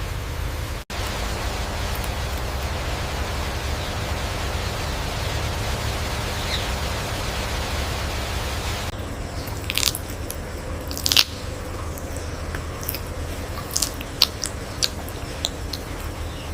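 Steady hiss throughout. From about halfway there is a series of sharp crunching cracks, the loudest about two thirds of the way in.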